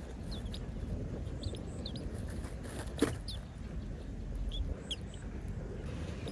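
Small birds chirping: short, high chirps repeated every half second or so. There is one sharp knock about three seconds in, over a steady low rumble.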